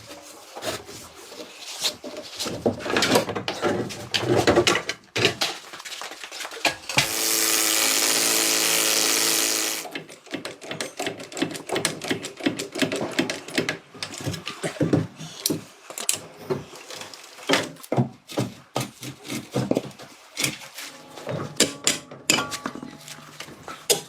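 Workshop tool sounds: a run of clicks and knocks, with a power tool running steadily for about three seconds near the middle.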